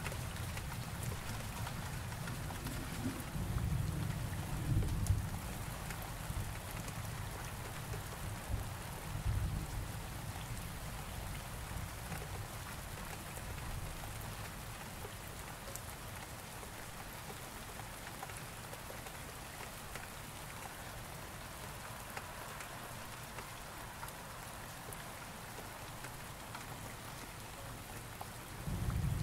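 Steady rain falling, with low rumbles of distant thunder swelling about three to five seconds in and again briefly around nine seconds.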